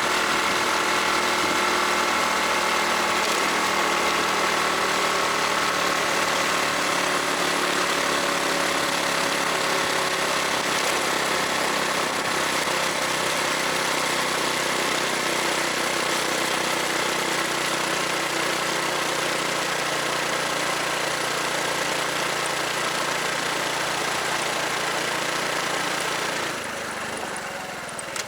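A Honda Super Cub's small single-cylinder four-stroke engine runs steadily under way, mixed with wind and road noise. The engine tone eases slightly lower over time, and the sound drops in level near the end as the bike slows.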